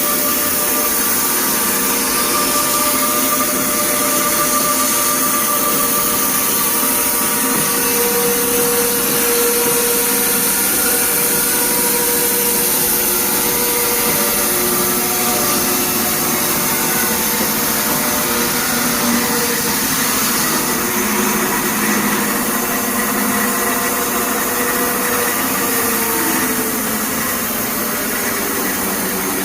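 Wood-Mizer band sawmill running steadily, likely its blade cutting a log. A few tones in the noise drift slightly in pitch.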